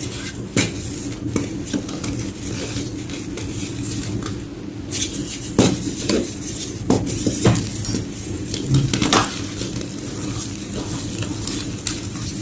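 Soft gym chalk being crunched and crushed: a run of irregular sharp crackles, the loudest clustered between about five and nine seconds in, over a steady low hum.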